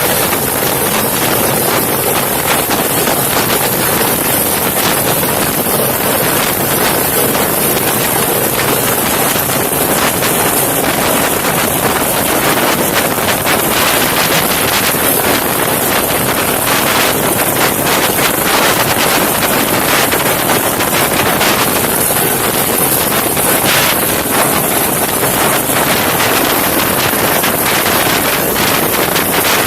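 Helicopter in flight: a loud, steady wash of rotor and engine noise mixed with wind rushing over the microphone.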